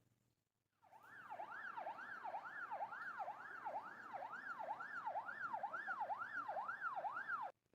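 Electronic police-style siren, a rising-and-falling whoop repeated about twice a second, starting about a second in and cutting off suddenly near the end.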